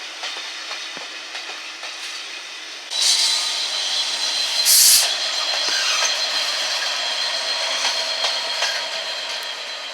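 Train running through the station, its wheels clicking over the rail joints. About three seconds in it gets suddenly louder, with a high steady squeal. A short burst of hiss comes about halfway through.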